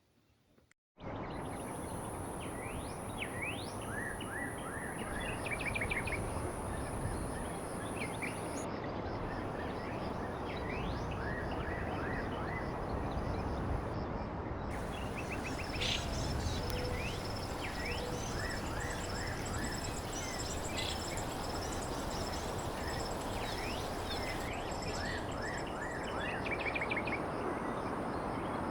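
Outdoor nature ambience: small birds chirping and calling repeatedly over a steady high insect buzz and a constant background hiss. The buzz drops out briefly twice.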